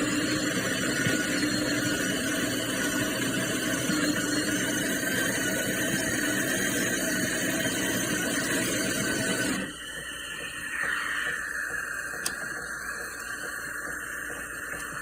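De'Longhi La Specialista Opera espresso machine running, a loud steady mechanical whir with a low hum for about ten seconds, then stopping suddenly and leaving a quieter hiss of water and pump.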